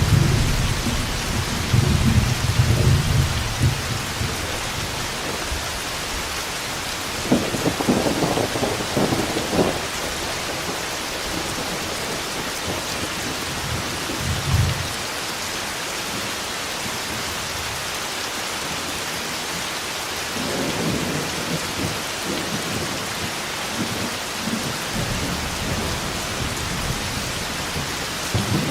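Steady heavy rain with rolling thunder: low rumbles at the start, around two to three seconds in, a stronger one about a third of the way through, a short one midway, and a longer, softer one through the last part.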